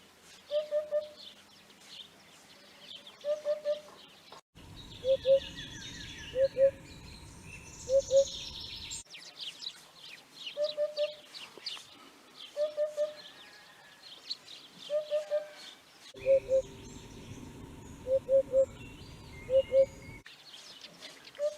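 Common hoopoe singing: a low 'oop-oop-oop' of two or three quick notes, repeated every one to two seconds, with smaller birds chirping higher in the background.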